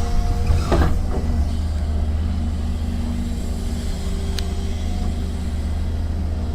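Heavy construction machine's diesel engine running with a steady low rumble, with a short clatter about a second in.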